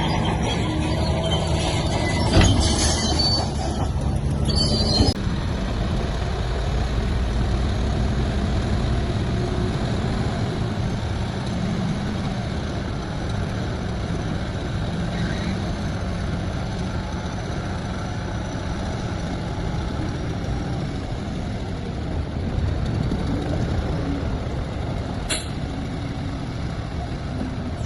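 Heavy diesel engine of construction machinery running steadily under load. A high hiss rides over it for the first five seconds and cuts off suddenly, and there is a single sharp click near the end.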